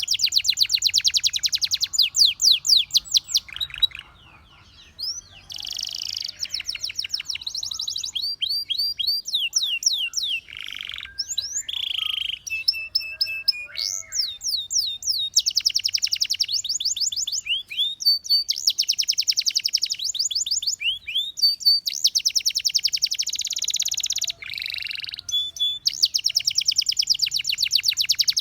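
Canary singing: long runs of rapid trills and fast repeated notes mixed with whistled slides, with a short break about four seconds in.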